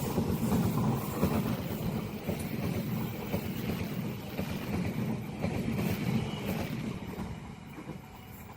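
A passing train rumbling along the rails, a steady low rumble that fades away over the last couple of seconds as it recedes.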